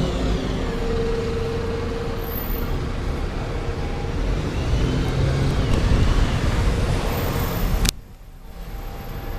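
Diesel engine of an Alexander Dennis Enviro400 double-decker bus running as the bus pulls away, growing louder around six seconds in. About eight seconds in the sound drops abruptly to a quieter engine hum.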